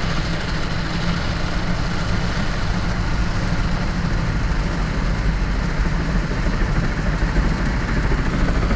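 Automatic car wash brushes and water working over the car, heard from inside the cabin: a steady, dense rumble and hiss.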